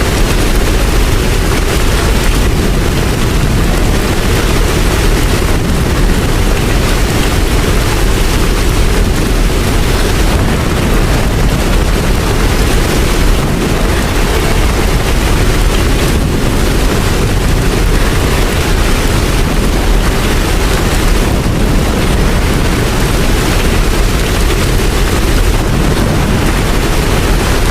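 Steady rain, an even wash of noise with a deep low rumble under it and no let-up.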